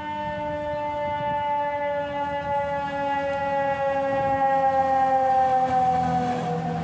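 Fire apparatus siren sounding one long tone that falls slowly and steadily in pitch, like a siren winding down.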